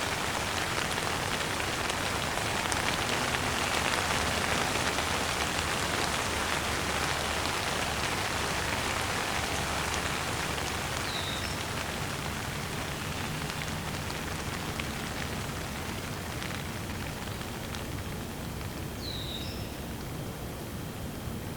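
Steady rain falling and pattering on surfaces as an even hiss that eases off a little in the second half. Two brief high chirps sound faintly over it, one midway and one near the end.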